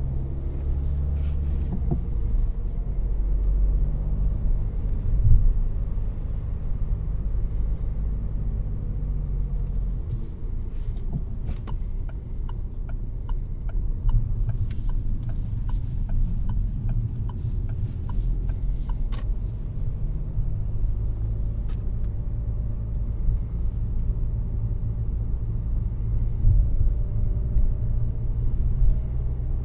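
Peugeot 308's 1.6-litre four-cylinder BlueHDi turbodiesel running steadily under way, with a low engine hum and road rumble. A run of light clicks comes about halfway through.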